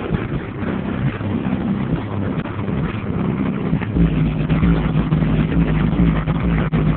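Oldsmobile car engine running at idle, heard up close around the hood. A steady low hum and rumble grow stronger about four seconds in, as the microphone passes the front grille.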